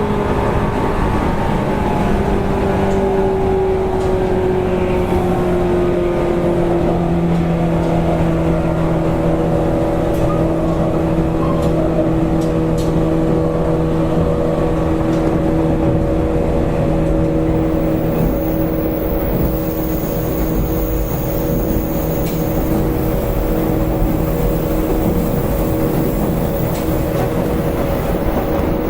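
185 series electric train running, heard inside motor car MoHa 184-18: the traction motor and gear hum falls in pitch over the first several seconds, then holds steady, over the rumble of wheels on rail.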